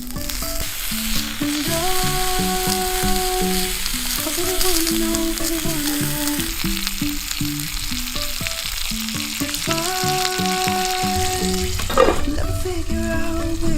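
Meat frying in hot fat with a steady crackling sizzle, under a gentle instrumental melody.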